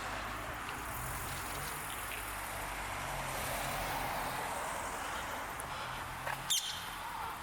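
A motor vehicle passing on the street, its tyre and engine noise swelling towards the middle and easing off, with a sharp click about six and a half seconds in.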